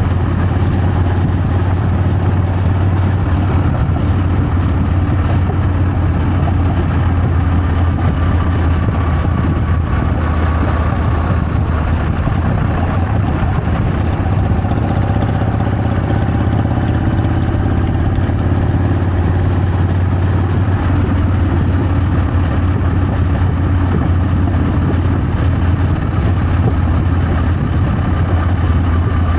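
Harley-Davidson Sportster's air-cooled V-twin engine running steadily, with no change in level.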